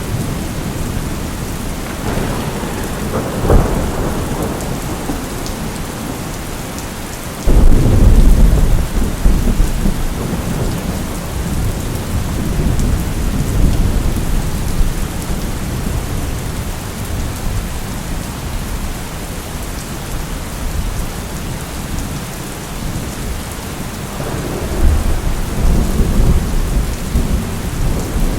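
Steady rain with rolling thunder. A rumble with a sharp crack comes a few seconds in, then a sudden loud clap about seven seconds in rumbles on for several seconds, and another rumble builds near the end.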